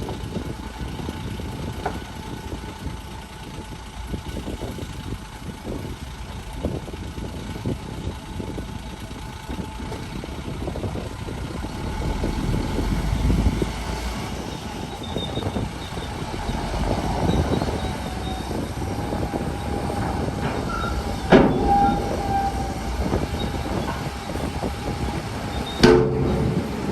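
Bulldozer at work: its diesel engine running under load, with the steel tracks grinding and, from about halfway, squealing. Two sharp metal clanks ring out, one about four-fifths of the way through and one just before the end.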